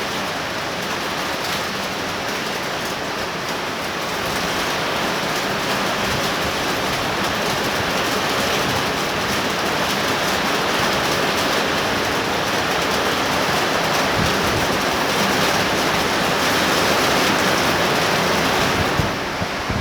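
Torrential rain pouring down in a steady, loud hiss that swells a little from a few seconds in and dips briefly near the end.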